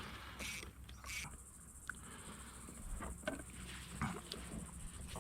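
Insects buzzing steadily in a high, thin band that sets in about a second in, with scattered small clicks and knocks.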